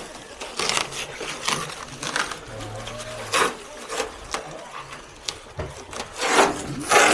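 Irregular knocks, clicks and scrapes of air-conditioner plastic panels and parts being handled and taken apart, with a louder scraping clatter near the end.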